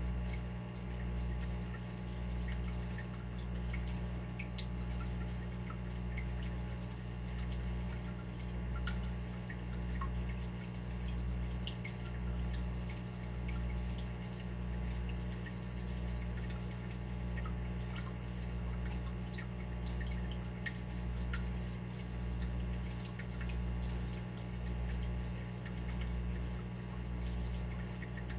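Water trickling and dripping, with many small scattered drip ticks, over a steady low hum that swells and fades about every second and a half.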